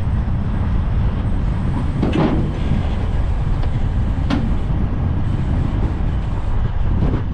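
Strong wind buffeting the camera's microphone despite its wind guard, a steady low rumble, with two brief knocks about two and four seconds in.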